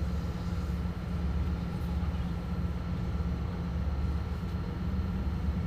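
Steady low rumble of a boat's engine running without change, with a faint steady whine above it.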